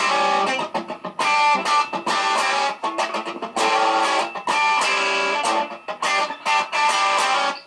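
Telecaster-style electric guitar built from a DIY kit, played through an amplifier: strummed chords and picked notes in phrases broken by short gaps, stopping abruptly at the end.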